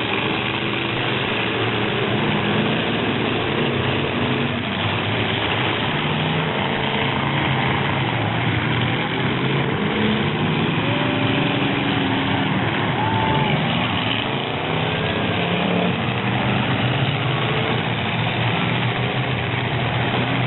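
Several demolition derby truck engines running together, revving so that their pitches rise and fall and overlap, over a steady wash of background noise.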